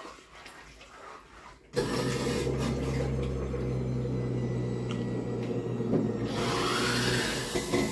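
A mains-powered kitchen appliance hums steadily, switching on abruptly a couple of seconds in and cutting off about five seconds later, with a hiss joining near the end.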